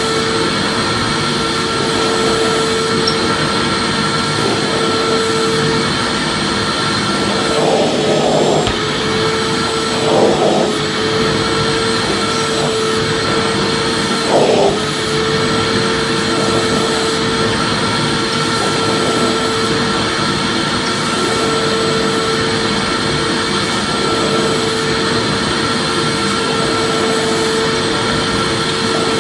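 Vacuum cleaner running steadily with a constant hum under its rushing air noise, and three brief swells in the sound partway through.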